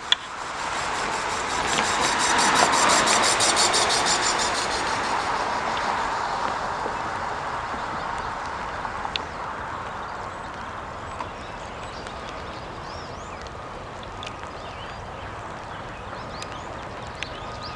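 A road vehicle passing the crossing, loudest about three seconds in and then fading slowly away.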